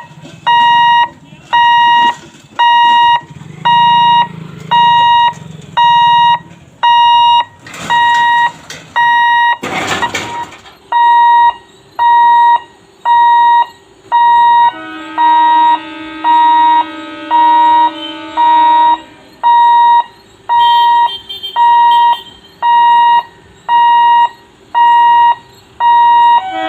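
Level crossing warning alarm beeping in a steady on-off rhythm, about one and a half beeps a second. A brief noisy burst comes about ten seconds in, and a lower horn tone is held for about four seconds past the middle.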